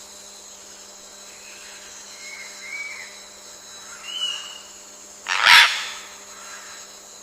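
Rainforest ambience: a few short faint bird chirps, then about five and a half seconds in one short loud harsh animal call, like a bark or squawk, over a steady faint high hum.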